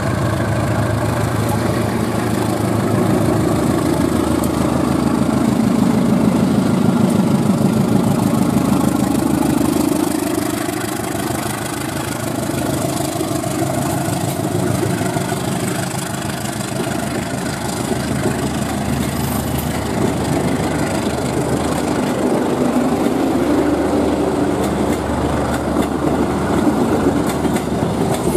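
Diesel-electric locomotive passing at low speed, its engine running loudly for the first ten seconds or so. After that the steady rolling of the passenger coaches' wheels on the rails takes over.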